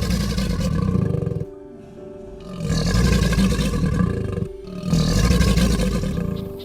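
A big cat roaring: three long, rough roars of about two seconds each, with steady background music underneath.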